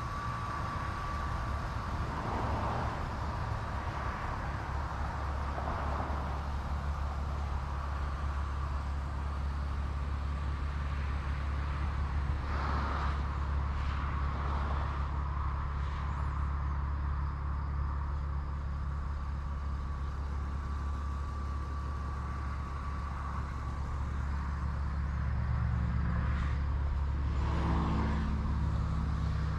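A 1999 BMW E36 M3's S52 3.2-litre straight-six idling steadily, warmed up, heard from outside the car. It grows a little louder near the end.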